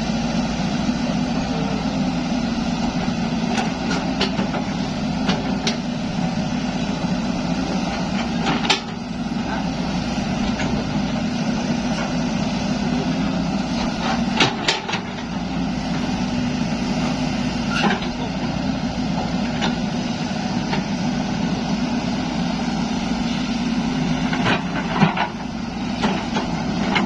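Zoomlion excavator's diesel engine running steadily under work, with a few sharp knocks scattered through it.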